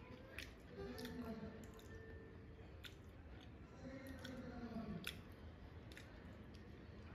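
Close-up mouth sounds of a person chewing crispy fried chicken, with scattered sharp crunchy clicks and smacks. Twice there is a low hummed sound that rises and then falls in pitch.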